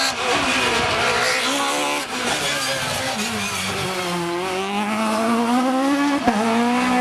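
Kit Car rally car's engine at high revs. Its pitch dips about halfway through as the car slows, then climbs again as it accelerates, with a single sharp crack near the end.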